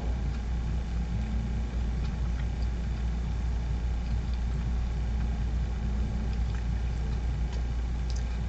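A steady low hum runs throughout, with a few faint ticks over it.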